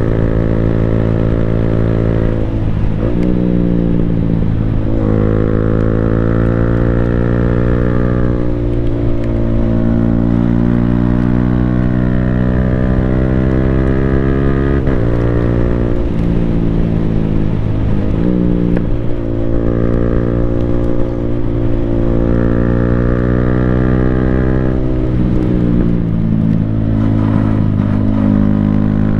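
Yamaha Sniper 155R's single-cylinder engine running through an Akrapovic full-system exhaust while riding at steady road speed. The engine note holds mostly level or climbs gently, and about five times it breaks and dips sharply before picking up again, the sound of gear changes or throttle lifts.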